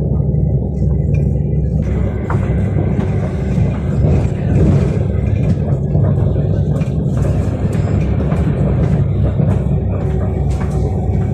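Running noise of an Elizabeth line Class 345 electric train, heard inside the carriage: a steady low rumble, with scattered clicks and rattles from the wheels and the carriage.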